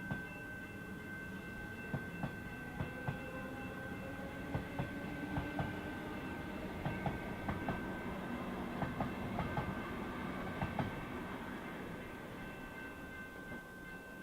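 Melbourne suburban electric train passing, its wheels clicking in pairs over rail joints, growing louder towards the middle and fading near the end, with a steady whine over the rumble.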